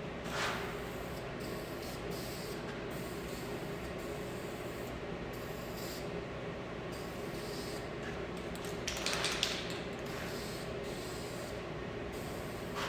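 Two short hissing sprays, a brief one right at the start and a longer one about nine seconds in, over a steady machine hum.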